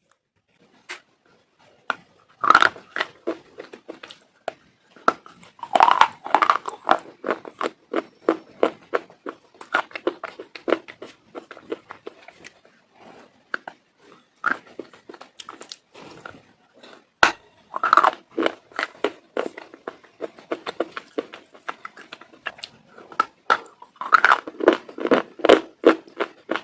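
Close-miked biting and chewing of crunchy food: a loud crunching bite every several seconds, followed by runs of quicker, smaller crunches as it is chewed.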